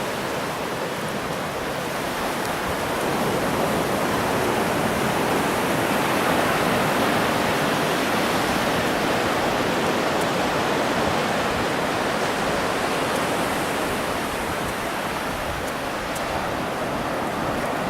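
Ocean surf washing on the beach in a steady, continuous rush that swells a little a few seconds in, then eases.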